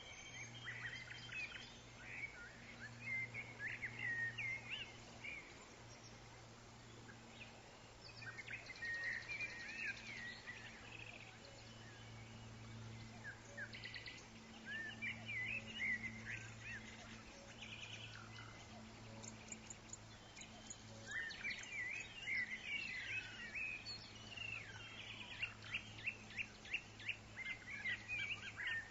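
Woodland birds chirping and twittering in bursts, ending in a quick run of repeated notes. A steady low hum and a faint hiss sit underneath.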